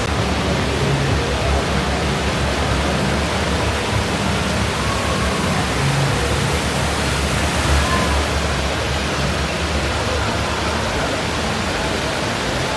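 Steady rush of falling water from a garden waterfall, with faint voices murmuring behind it.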